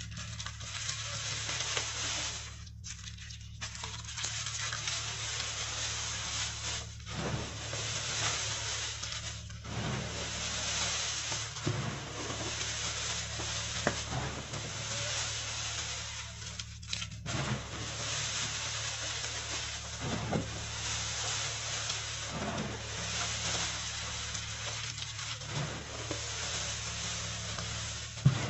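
Blue balls of reformed gym chalk being crushed and crumbled, a continuous crunchy crackle that stops briefly a few times.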